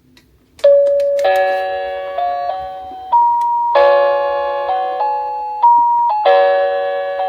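Musical Christmas carousel decoration playing a chiming tune: bell-like notes, each struck and fading, in a slow melody that starts about half a second in.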